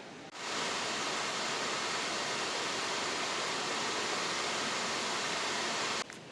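Steady rushing water, a dense even roar that cuts in abruptly just after the start and cuts off sharply near the end.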